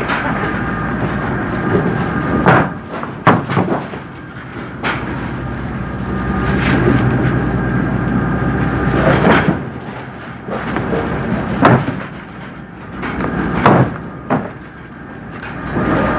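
Machinery on a squid-jigging fishing boat running steadily with a few steady whining tones, broken by about seven irregular sharp knocks and clanks.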